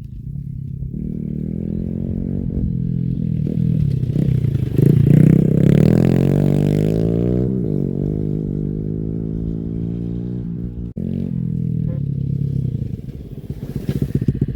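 Honda CRF110 pit bike's small single-cylinder four-stroke engine running through an aftermarket exhaust. The engine revs up, climbing in pitch to its loudest about five seconds in, then falls away as the throttle eases. It runs lower and unevenly near the end.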